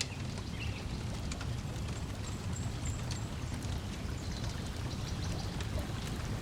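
Lake water lapping against the shore as a steady low wash, with scattered sharp crackles and pops of a wood fire and a few faint high bird chirps.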